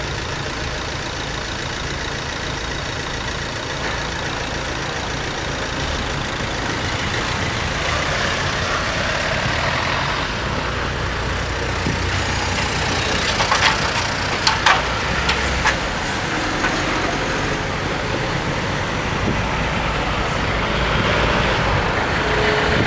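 Vehicle engines running steadily at a railway level crossing. About two-thirds through comes a short cluster of sharp metallic clanks and squeaks.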